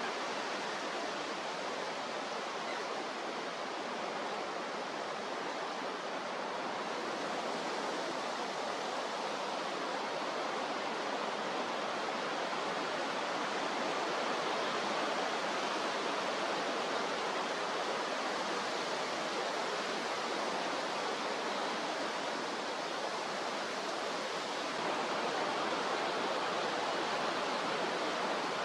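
Steady rushing noise of strong wind and rough sea.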